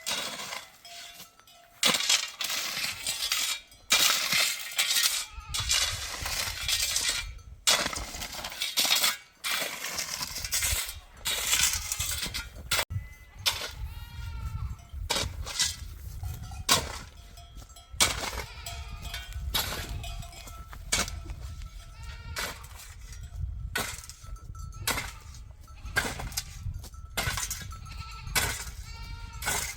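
A flock of sheep and goats bleating, many calls one after another and overlapping, with a low rumble underneath from about five seconds in.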